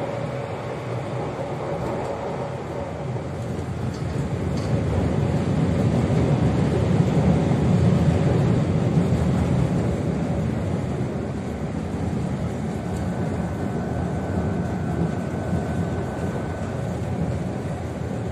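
Running noise of a Cercanías commuter train heard from inside the passenger car: a steady rumble that swells louder about a third of the way through and then eases. A faint steady high whine joins in after the middle.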